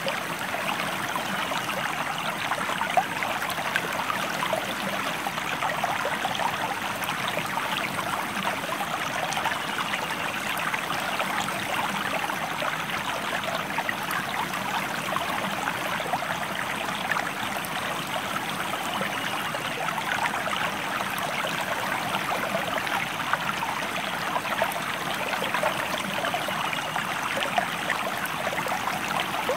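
Stream water flowing steadily, a continuous rush with brief louder splashes here and there.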